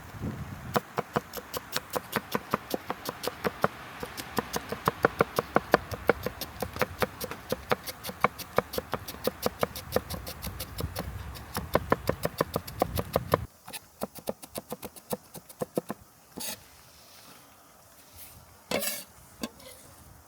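Knife chopping rapidly on a wooden cutting board, about five or six strokes a second, over a low steady rumble. About two-thirds of the way in the rumble stops abruptly and the chopping thins to a few separate knocks.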